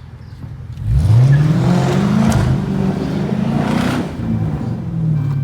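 Dodge Charger R/T's 5.7-litre Hemi V8 pulling hard through an exhaust with the resonator and mid-muffler deleted, cats kept: the revs climb sharply about a second in, hold high, then ease off near the end.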